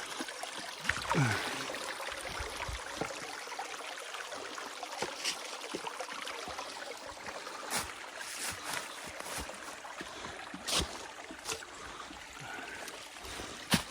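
Shallow creek water running and trickling over rocks, with scattered sharp knocks and clatters throughout.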